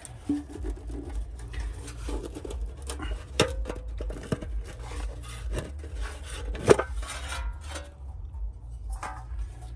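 Metal char tin being handled and its lid prised open: scattered metallic clicks, taps and scrapes, with one sharp click standing out about two-thirds of the way through.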